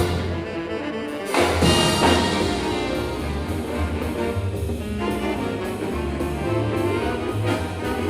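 Jazz big band playing live, with trumpets, trombones and saxophones over bass and drums. A loud full-band accent comes about a second and a half in.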